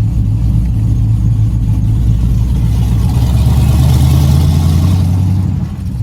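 Chevy C10 race truck's engine running as the truck pulls away, its pitch rising as it accelerates from about three seconds in, then dropping back as the throttle eases near the end. The engine is still a little cold and running rough.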